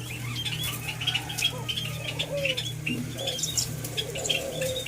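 Birds chirping in many quick, short, high notes, with a few soft low coos from white-eared brown doves. A steady low hum runs underneath.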